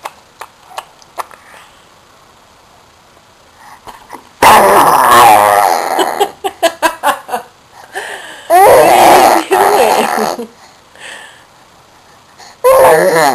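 A six-month-old baby making loud wordless vocal sounds in three bursts, the second and third each lasting one to two seconds, with small clicks in between.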